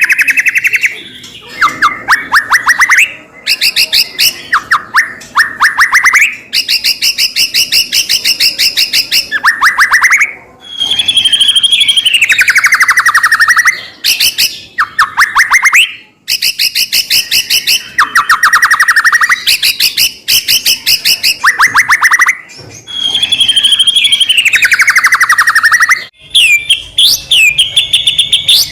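White-rumped shama (murai batu) singing continuously and loudly. Phrases of fast rattling repeated notes alternate with whistles that fall in pitch, with short breaks between phrases.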